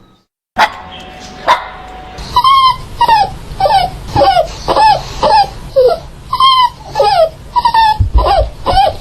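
Puppy crying: after a moment's silence, two sharp yelps, then a fast run of short high whimpering cries, about three a second.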